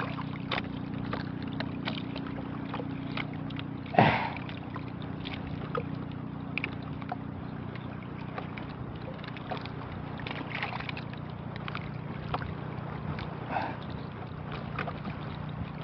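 Steady low drone of a boat engine, with small knocks and water sloshing around a small boat; a brief louder sound about four seconds in.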